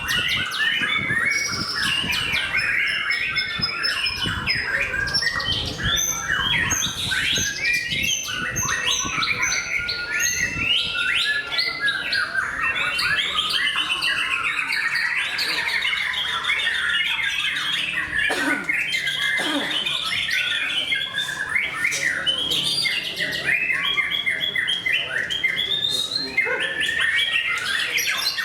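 White-rumped shama (murai batu) singing a long, continuous song of rapid, varied whistled phrases and trills, with hardly any pauses.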